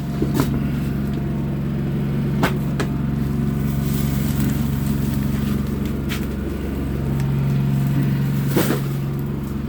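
Generator engine running at a steady hum, with a few sharp clicks over it.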